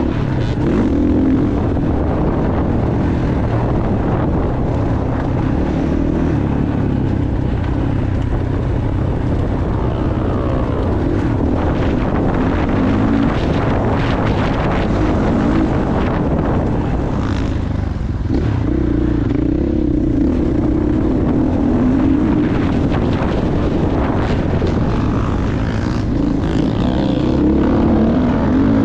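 Motocross bike engine run hard round a dirt track, its pitch rising and falling as the throttle is opened and closed, with a brief drop in revs about eighteen seconds in.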